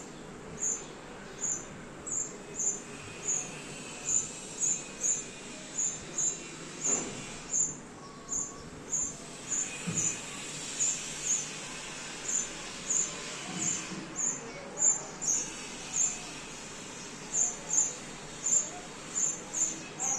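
A sparrow chirping over and over, short high chirps about twice a second at an uneven pace.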